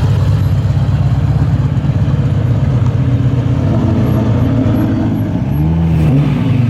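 Car engine running loud with a deep, lumpy low rumble. In the second half, pitched sounds rise and fall over it.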